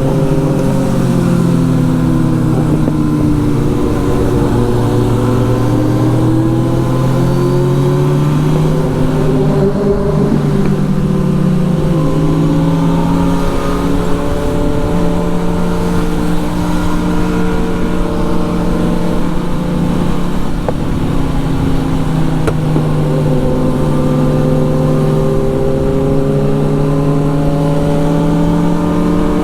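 Motorcycle engine running under way, its pitch rising and falling slowly as the revs change, with heavy wind rumble on the microphone.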